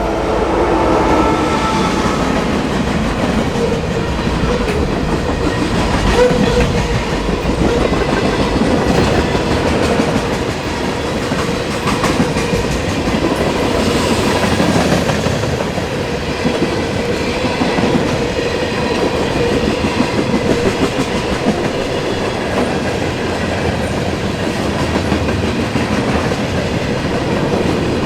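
Intermodal container freight train rolling past: a loud, steady rumble of the cars with wheels clacking rapidly over the rail joints.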